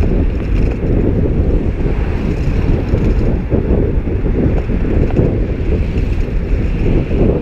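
Steady low rumble of wind on the microphone of a moving bicycle, mixed with road traffic noise.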